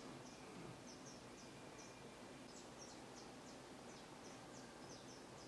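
Near silence: quiet room tone with faint, short, high-pitched chirps of small birds repeating irregularly, a couple each second.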